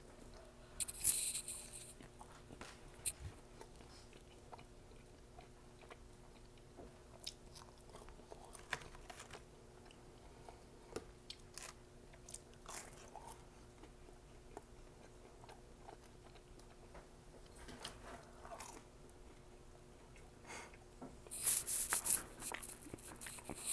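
Close-miked chewing and biting of McDonald's food, with a string of small mouth clicks and crunches. Two louder noisy bursts come about a second in and near the end.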